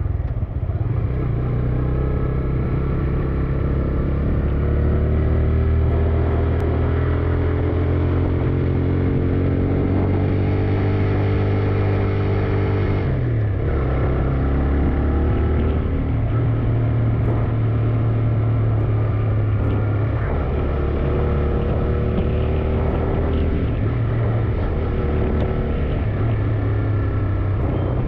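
A TVS Raider 125's single-cylinder engine running while riding, its pitch rising and falling with the throttle, with a quick drop in revs about 13 seconds in, over a steady low rumble.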